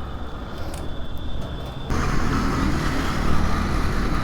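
Vehicle engines running amid road traffic. About two seconds in, a louder steady whooshing hum sets in and holds.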